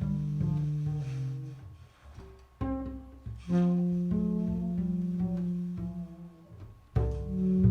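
Upright bass playing a slow jazz ballad, low notes held and left ringing, with a few sharp new attacks. The tenor saxophone is not prominent.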